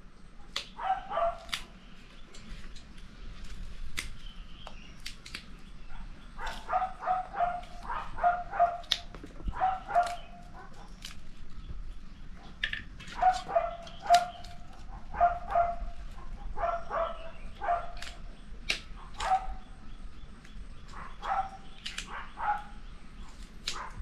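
A dog barking in runs of several short barks, with pauses between the runs.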